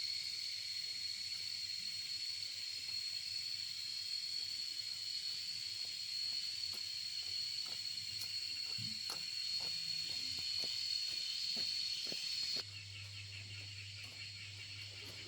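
Insects in the fields droning: a steady high-pitched shrill that cuts off suddenly about three-quarters of the way through, with a few faint clicks.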